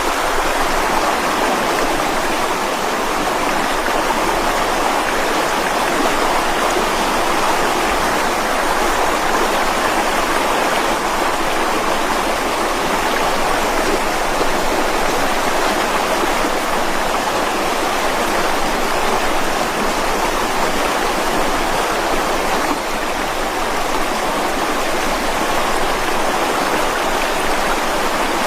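Mountain river rushing over rocks, a steady even rush of flowing water.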